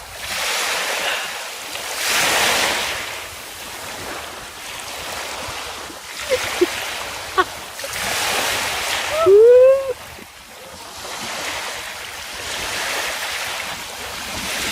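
Sea waves breaking and washing in, swelling and fading every few seconds. A few short cries cut through in the middle, the longest and loudest a rising-and-falling call about two-thirds of the way in.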